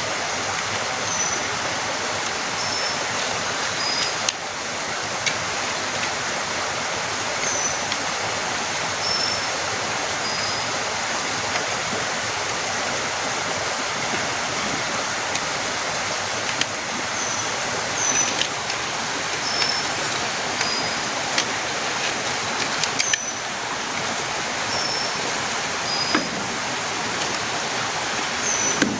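Heavy rain falling in a steady dense hiss, with a few brief knocks of drops. A small high chirping call comes in short series of three falling notes, repeating every several seconds.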